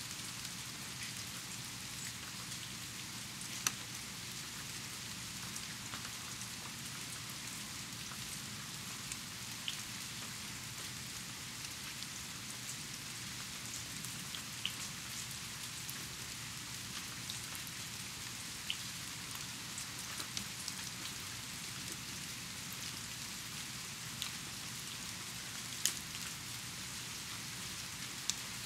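Steady rain falling, an even hiss of many small drops, with a few sharper, louder drop ticks scattered through it.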